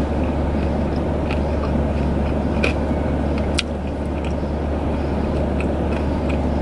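Steady low rumble and hum of a car idling, heard inside the cabin, with a few faint clicks of someone chewing food.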